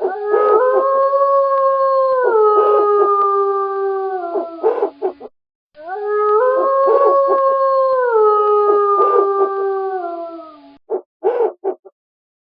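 Wolf howling: two long howls, each holding one pitch and then stepping down in pitch twice before trailing off. A few short, quick calls follow near the end.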